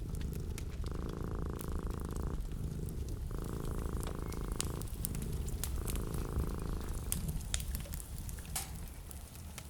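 Fireplace crackling over a steady low rumble, with a low rough rhythmic sound coming in three pulses of about a second each.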